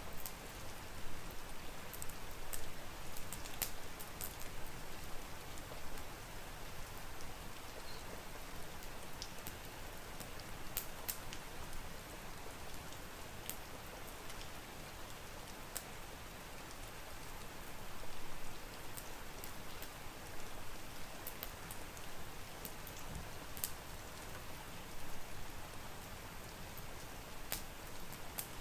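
Steady rain with irregular sharp pops and crackles of a wood fire mixed in.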